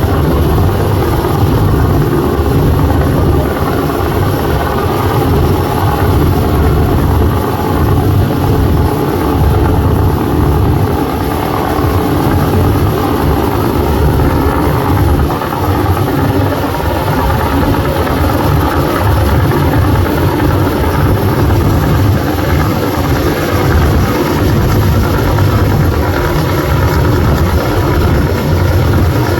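Loud, steady running rumble of a fast-moving vehicle, with an uneven low-pitched rumble throughout.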